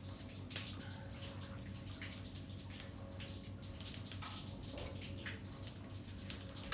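Liquid trickling and dripping in small, irregular splashes, over a steady low hum.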